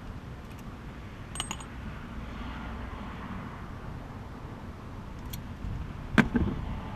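Light metallic clinks of metal parts being handled, then a louder metal clunk with a quick second hit about six seconds in, over a low steady rumble.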